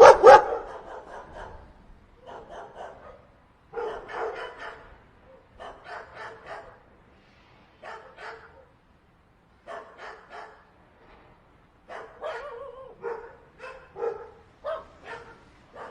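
Dogs barking in short runs of two to four barks every second or two. A very loud bark comes right at the start, and the later barks are quieter.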